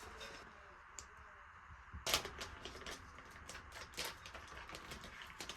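A steady hiss, with a quick, irregular run of sharp clicks and taps starting about two seconds in.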